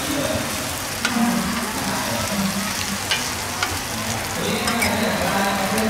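Oyster omelettes of oysters and egg sizzling in hot oil on a large flat pan, a steady hiss, with a few sharp clacks of metal spatulas against the pan.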